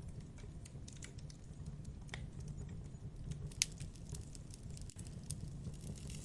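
Campfire crackling: irregular snaps and pops of burning wood over a low steady rumble, with one sharper pop a little over halfway through.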